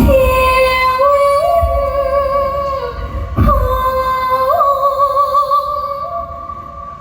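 A woman singing in Thai likay style, drawing out long notes with a wavering vibrato that step up and down in pitch. There is a single sharp hit about halfway through.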